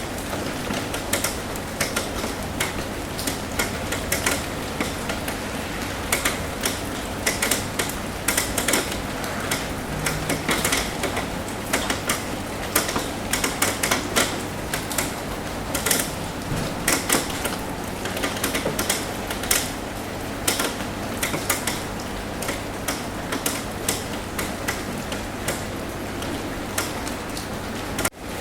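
Rain on a roof: a steady hiss of rain with many irregular, sharp drop taps on top. It cuts out briefly just before the end.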